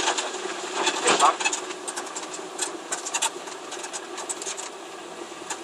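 Peugeot 106's modified petrol engine running at low revs, a steady drone heard inside the cabin through its de-catted sport exhaust.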